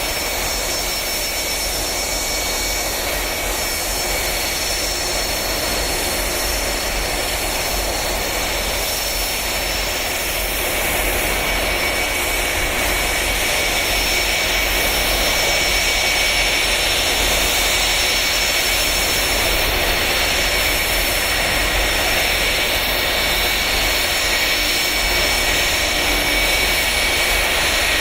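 Boeing 757 jet engines idling with a continuous rushing noise and a steady high whine. The sound grows a little louder about eleven seconds in.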